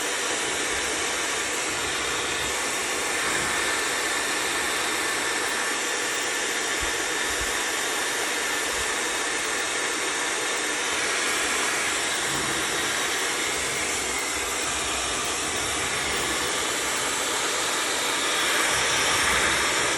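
Laifen hair dryer running: a steady rush of air with a faint high whine, switched off abruptly at the end. Its heater does not come on, so it is blowing cold air only.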